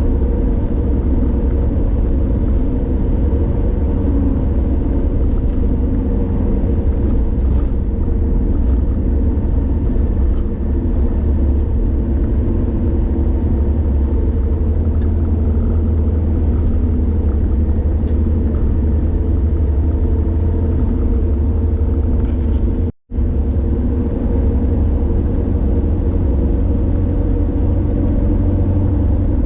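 Steady low rumble of a car travelling at highway speed, engine and tyre noise heard from inside the car. The sound cuts out completely for a split second about two-thirds of the way through.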